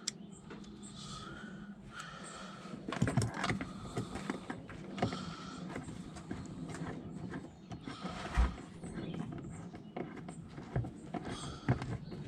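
Hand driving of Torx screws into a car door's plastic pull-handle trim with a T30 screwdriver: scattered small clicks and short squeaks of plastic, with one louder knock about eight seconds in.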